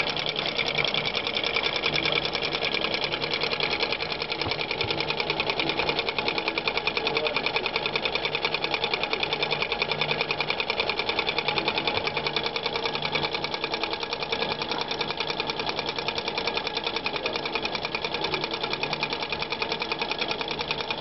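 Small coffee-cup Stirling engine running steadily on the cold of liquid nitrogen beneath it, its moving parts making a fast, even ticking clatter.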